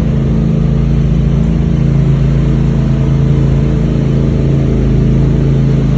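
Side-by-side UTV engine running at a steady speed, holding an even pitch.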